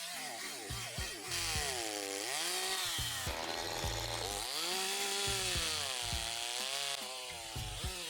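A Makita DCS5121 50 cc two-stroke chainsaw engine, revved up and down so its pitch rises and falls in slow sweeps, heard together with background music.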